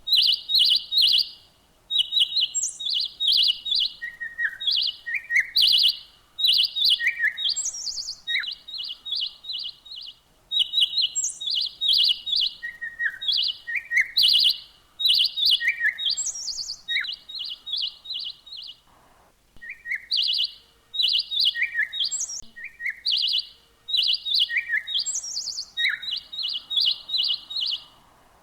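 Songbird singing: quick trills of rapid, high, evenly repeated chirps, mixed with short falling notes, in phrases broken by brief pauses.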